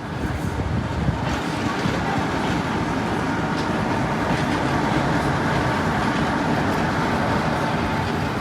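Class 47 diesel locomotive on the move, its Sulzer twelve-cylinder engine running amid steady rail and wheel noise, growing louder toward the middle and easing slightly near the end.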